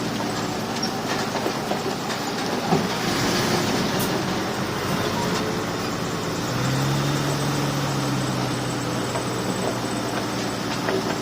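Crawler bulldozer at work: a steady diesel engine running with the rattle of its steel tracks. About six and a half seconds in, the engine note grows stronger for a few seconds.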